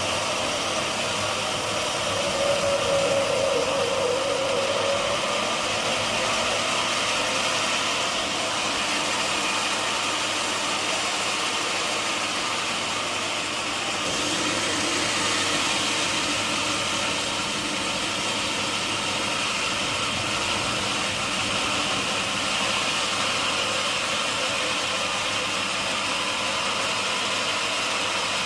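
Sawmill machinery running steadily, a constant mechanical hum and hiss, with a brief higher tone a few seconds in.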